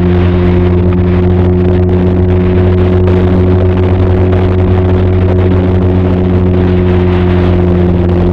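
Benelli TRK 502 parallel-twin engine and exhaust running at a steady, unchanging speed, as when cruising at constant throttle.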